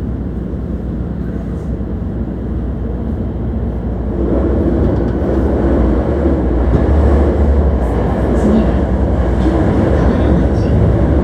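Hankyu 1300 series train running in the underground section, heard from inside the car as a steady rumble of wheels on rail that grows louder about four seconds in.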